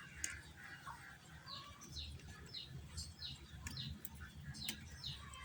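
A small bird chirping a series of short, downward-sliding notes, about two a second, with a few faint clicks alongside.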